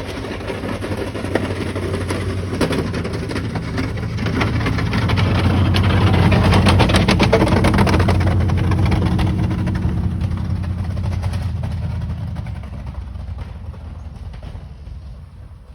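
Vehicle engine running with a steady low drone. It swells louder toward the middle, then fades away near the end.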